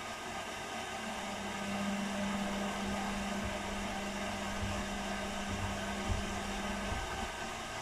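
Two washing machines running a quick wash with blankets inside: a steady mechanical whir, with a motor hum that starts about a second in and stops near the end over irregular low thuds.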